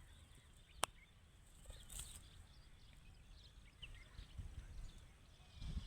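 Mostly quiet, with one sharp click a little under a second in and a few faint, short chirps from a pet parrot.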